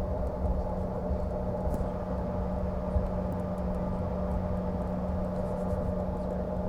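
Steady cabin drone of a CRJ-550 regional jet in flight: its rear-mounted turbofan engines and airflow give a constant low rumble with a steady hum.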